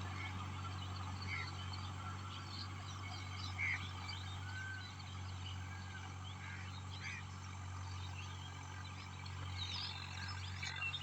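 Scattered short chirping calls of small animals over a steady low hum, with a cluster of calls near the end.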